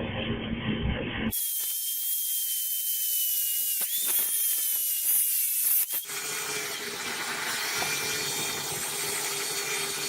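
Power tools working metal, in three clips joined with hard cuts. The middle clip carries a high whine that sags slightly in pitch. The last clip has a steadier, fuller running sound with a low hum.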